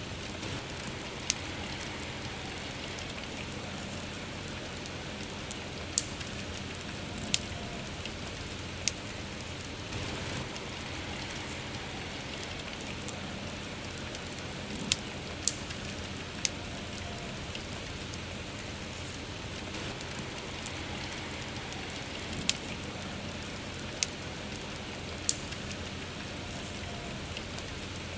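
Steady rain, with sharp pops of a crackling wood fire scattered irregularly every second or two.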